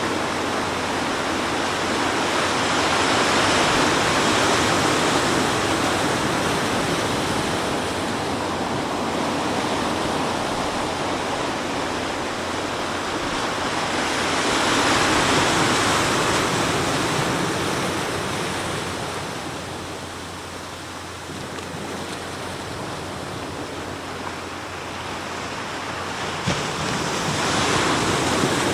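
Sea waves breaking and washing on the shore in a continuous rush. The surf swells louder three times, about every twelve seconds, easing off in between.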